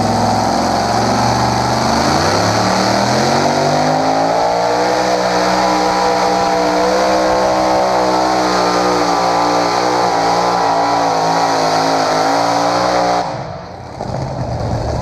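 Pulling vehicle's engine at full throttle, hauling the sled down the tractor-pull track. Its pitch climbs over the first few seconds, then holds high and wavering, and it cuts off sharply about thirteen seconds in as the pull ends.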